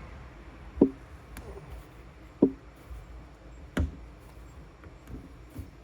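Three sharp knocks about a second and a half apart, then two fainter ones near the end, as a replacement angled plastic fitting is worked into the heat-softened end of a fuel line.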